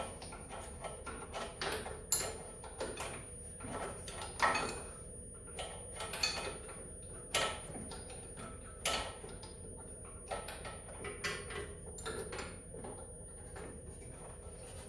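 Hand wrench clicking and knocking against a snowmobile engine's starter bolt and casing as the bolt is worked loose a little at a time, in scattered short metallic knocks, the sharpest about two seconds in.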